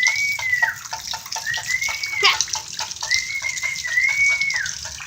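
Water dripping and splattering in a quick, uneven run of ticks: runoff from hail and rain. Over it, a high thin whining call comes four times, each one rising, holding briefly and dropping away.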